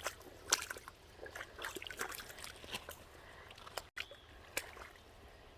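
Light, irregular splashing and dripping of water as a dog shifts about in shallow water.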